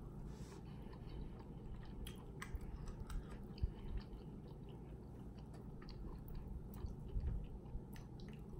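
A man chewing mouthfuls of lemon pepper rotisserie chicken close to the microphone: fairly faint, with many small wet mouth clicks scattered throughout.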